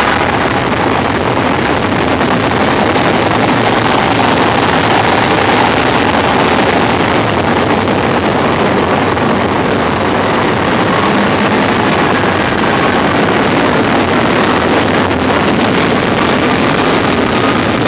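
Elevated train running on the tracks overhead: a loud, steady roar, with faint falling squeals near the end.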